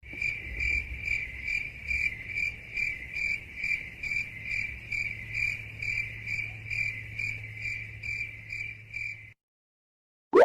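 Cricket chirping sound effect, the meme's 'awkward silence' crickets: a high chirp repeating evenly about two and a half times a second over a low hum, stopping abruptly after about nine seconds.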